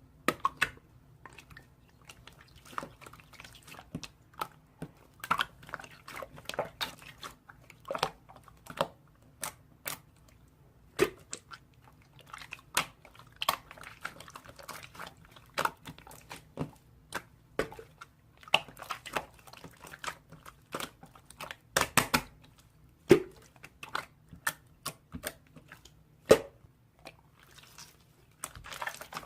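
Slime being kneaded and pressed by hand, making irregular sharp pops and crackles.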